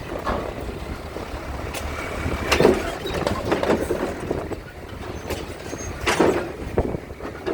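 Strong, gusty wind buffeting the microphone in irregular surges, over a steady low rumble.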